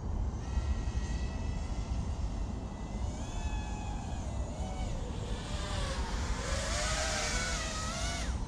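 5-inch FPV racing quad's motors and propellers whining, the pitch rising and falling with the throttle, over a heavy low rumble.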